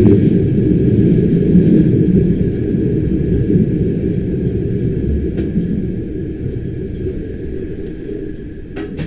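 Bernina Express train running, heard from inside the passenger coach: a steady low rumble of wheels on the track with a few faint light ticks, slowly getting quieter.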